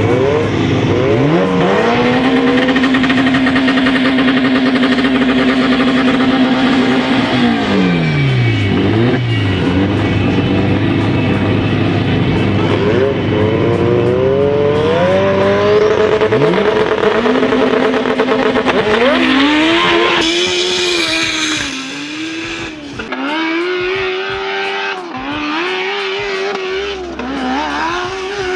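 Turbocharged Honda street cars' engines revving hard. The engine pitch holds high, dips and climbs again, then in the last third the revs rise and fall in repeated short blips.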